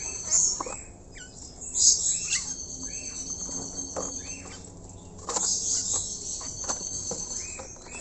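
A bird giving short chirping calls, a couple of dozen over a few seconds, each a quick rise and fall, over a steady high insect trill. A few sharp clicks come from the plastic bath tub being knocked against the wire cage as it is set in.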